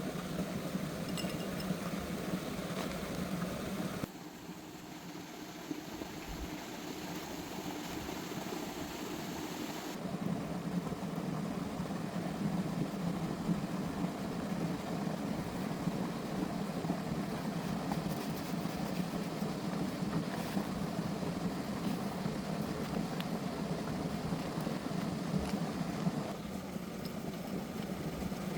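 An engine running steadily at idle, with a constant low hum; the sound drops and changes abruptly about four seconds in and again about ten seconds in.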